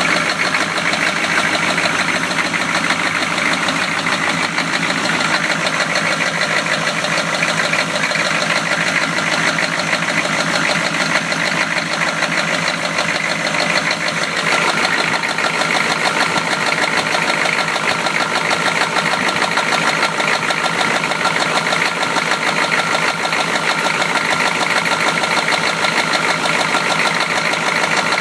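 1993 Chevrolet engine running with a steady, rapid knock: rod knock, the sign of a worn connecting-rod bearing. The tone shifts slightly about halfway through.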